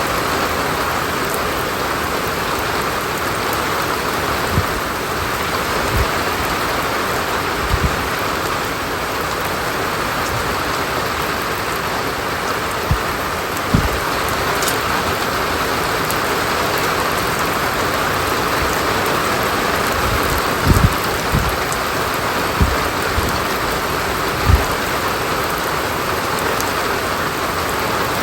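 Steady rain falling, an even hiss, with a few brief low thuds scattered through it.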